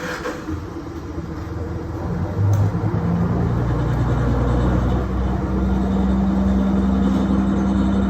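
KiHa 110 series diesel railcar's engine powering up as the train pulls away from a station: its drone grows louder over the first three seconds, then holds steady. A short click sounds near the start and again about two and a half seconds in.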